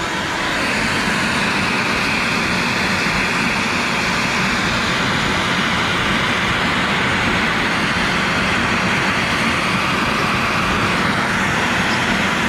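CNC router spindle cutting PVC with a 1/8-inch upcut endmill, with the dust-collection vacuum running, as a steady machine noise. It steps up slightly about half a second in, then holds level.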